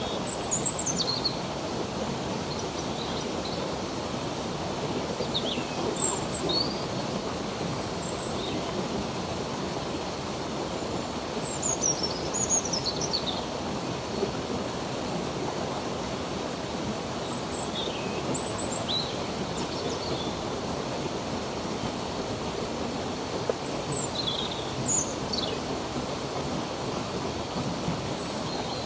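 Steady rushing of a flowing stream, with songbirds chirping over it in short, high, falling notes every few seconds.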